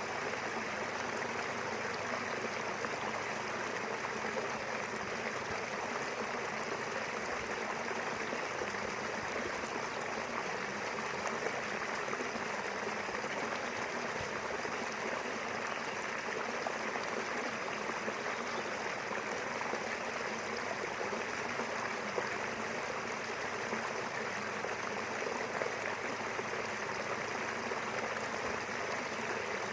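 River water flowing steadily, a constant rushing and babbling of running water.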